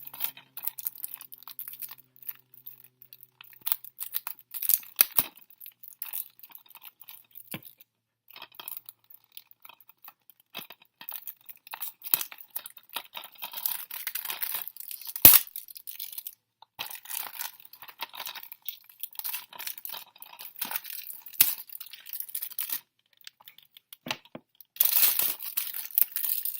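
Plastic shrink-wrap being torn and peeled off a DVD case: irregular crinkling and tearing, with one sharp click about halfway through and a louder stretch of tearing near the end.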